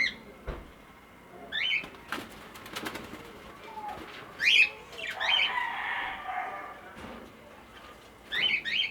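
Small parrots in an aviary flight, cockatiels with budgies among them, giving short sharp calls three times. Wings flutter for a couple of seconds around the middle, with a few light clicks from the cage.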